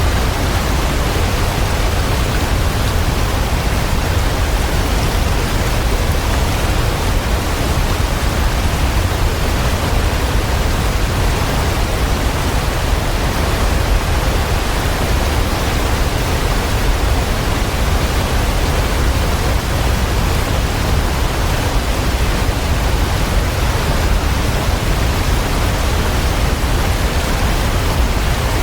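Waterfall rushing in a steady, unbroken roar of falling water, heaviest in the low end.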